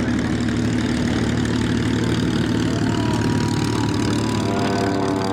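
Vintage warbird piston engines idling with a steady, low rumble.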